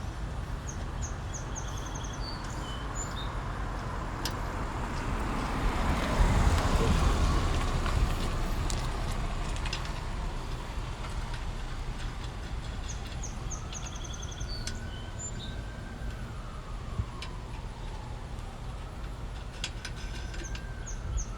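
Road traffic going by: a steady background of passing vehicles, with one passing close and loudest about six to eight seconds in, and more vehicles rising and falling in pitch as they pass later on.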